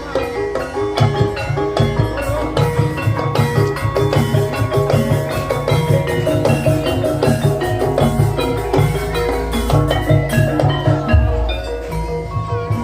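Traditional Javanese ebeg (kuda lumping) accompaniment music: tuned mallet-struck percussion plays a fast, repeating melody over steady hand-drum strokes.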